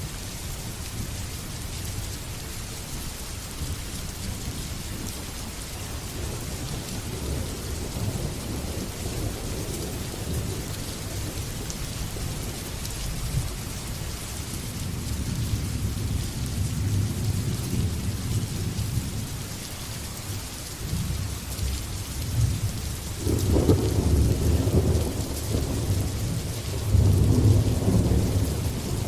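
Steady rain falling, with thunder rumbling low underneath: the rumble builds through the middle, and louder rolls of thunder come about two-thirds of the way through and again near the end.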